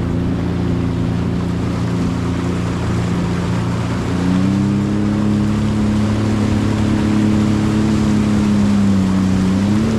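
Sea-Doo Explorer Pro 170 personal watercraft's Rotax three-cylinder engine running steadily under way during its engine break-in. The engine note rises about four seconds in, holds, and rises slightly again near the end. Wind and water noise run underneath.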